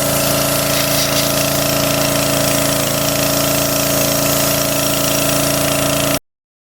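A machine motor running steadily at a constant pitch, cutting off abruptly about six seconds in.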